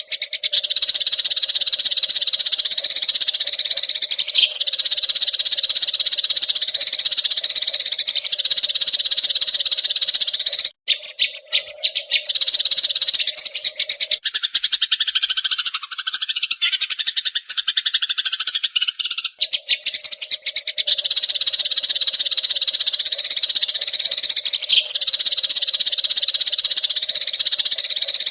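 A flock of Eurasian tree sparrows chirping and chattering continuously, with a steady low hum underneath. The sound breaks off abruptly about 11 seconds in, and its texture changes between about 14 and 19 seconds, as if the recording were spliced.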